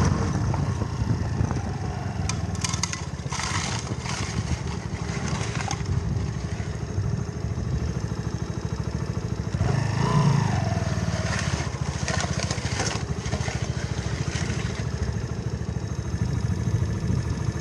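Mutt Akita motorcycle's single-cylinder engine running under way, with a short rev that rises and falls about halfway through. Patches of rough crackling noise come and go over the engine, and the sound cuts off abruptly at the very end.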